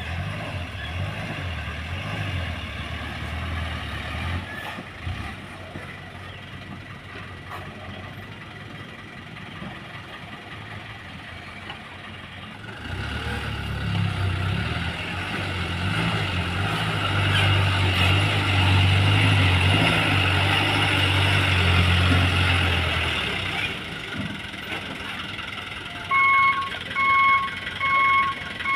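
Toyota Dyna dump truck engine running, rising to a louder, harder run for about ten seconds in the middle as the load is tipped, then easing back. Near the end a reversing alarm starts beeping, a little more than once a second.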